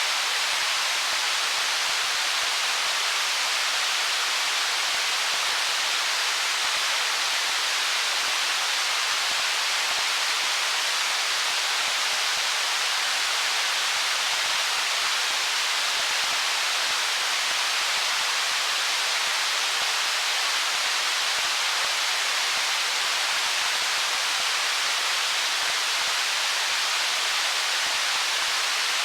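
Stream water rushing over stones as an even, unchanging hiss, with no separate splashes or gurgles standing out.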